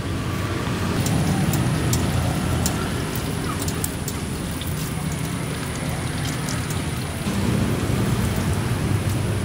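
Food sizzling in hot oil in a wok, a steady hiss with many sharp crackles over a low rumble, growing a little louder twice.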